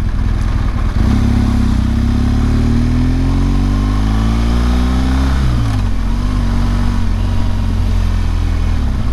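BMW R1200GS Adventure's boxer-twin engine pulling up through the revs for about four seconds, then dropping sharply about five seconds in and running on steadily at lower revs, over steady road and wind noise.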